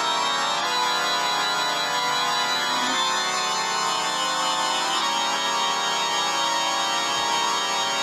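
Organ music: sustained chords held with several notes at once, shifting to new chords every couple of seconds.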